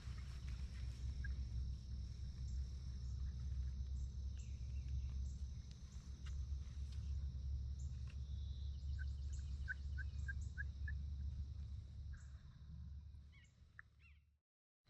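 Outdoor dawn ambience: insects buzzing in a steady high drone over a low rumble, with a bird giving a quick run of about seven short chirps partway through. The sound fades out shortly before the end.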